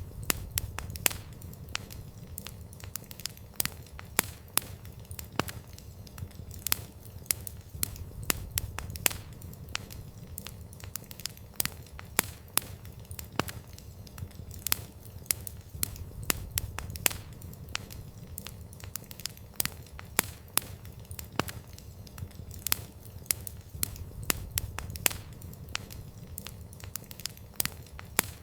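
Campfire wood burning and crackling: frequent, irregular sharp pops and snaps over a low, steady rumble of the flames.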